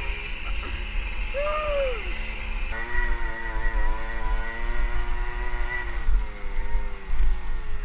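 Small two-stroke Jawa motorcycle engine running under way, with a brief rise and fall in pitch about a second and a half in, then held at a steady pitch before easing off slightly near the end. Heavy wind rumble on the helmet microphone underneath.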